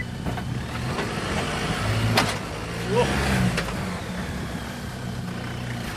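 Jeep JK Wrangler engine working under load on a rock climb, revving up about two seconds in and settling back. A single sharp knock rings out just as the revs rise.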